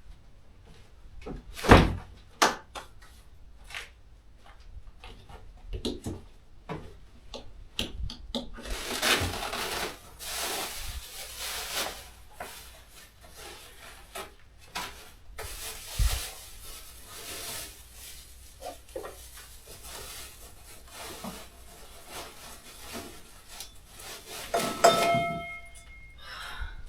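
Camp cooking gear being handled and set out: a series of knocks and thunks, stretches of rustling, and near the end a metallic clink with a brief ring.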